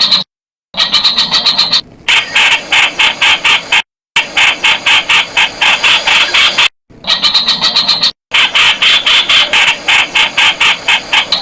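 Streak-eared bulbul calling: rapid runs of sharp, repeated notes, about six a second, broken several times by abrupt short silences.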